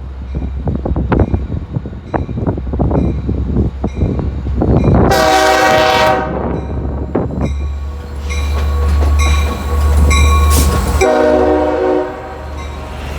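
A train running past with a low rumble and wheels clicking over rail joints, sounding its horn in two short blasts, about five seconds in and again near the end.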